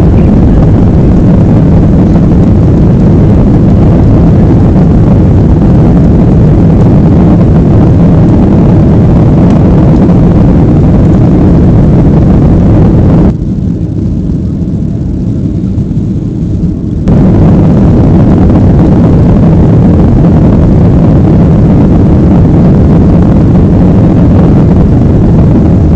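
Steady, loud cabin noise of a GOL Boeing 737 airliner, its engines and airflow running as one even rumble, recorded hot enough to near the limit. For about four seconds past the middle the higher part of the noise drops out, then comes back.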